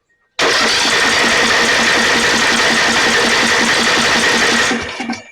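Electric starter cranking the 12.5 hp Briggs & Stratton engine of a Snapper riding mower for about four seconds, with a steady whine and an even chugging beat, without the engine catching; it stops near the end. The repairman takes the failure to start for a flooded engine.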